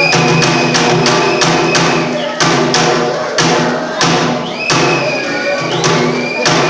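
Bitchu kagura music: a taiko drum struck in a driving rhythm, about two to three beats a second, under a high held melody line that slides in pitch now and then.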